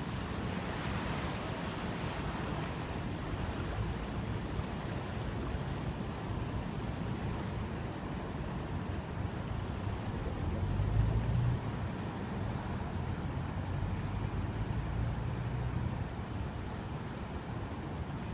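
Steady rushing of surf and wind, with wind buffeting the microphone as a low rumble that swells briefly about eleven seconds in.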